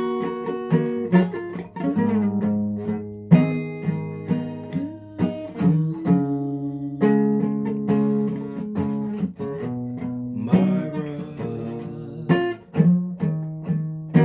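Acoustic guitar strummed and picked, chords ringing between sharp strokes, in an instrumental passage of a song.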